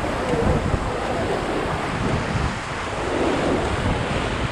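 Rushing river water around a paddling raft, a steady loud wash, with wind buffeting the microphone.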